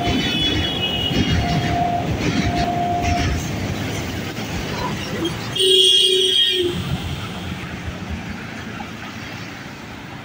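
EMU electric local train running across a steel truss bridge, a steady noise of wheels and traffic, with a high tone sounding in short stretches during the first three seconds. About six seconds in, a bus horn blasts loudly for about a second; afterwards the noise slowly fades.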